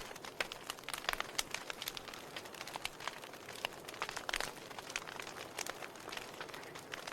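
Log fire crackling: burning wood snaps and pops irregularly, several times a second, over a steady hiss of flames, with a cluster of louder pops about four seconds in.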